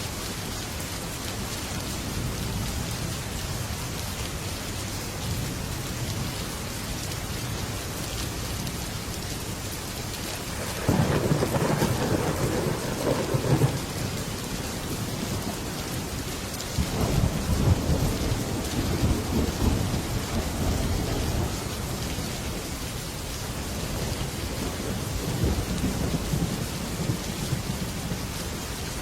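Heavy rain pattering steadily on a metal roof, with thunder rumbling through it: a sudden loud rumble about a third of the way in, a longer one a little past halfway that fades out, and a softer swell near the end.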